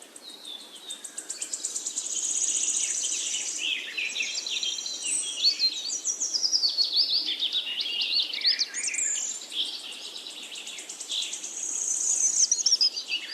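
A chorus of several wild songbirds singing and calling at once, mixing short chirps, whistled notes and fast high trills, over a faint steady rush of river water.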